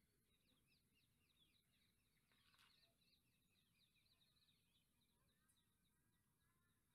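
Near silence, with faint, rapid chirping of small birds throughout.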